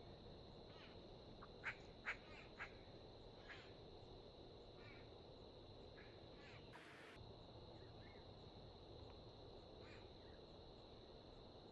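Short, harsh bird calls, the three loudest close together about two seconds in and a few fainter ones after, over a steady hiss and a thin high whine.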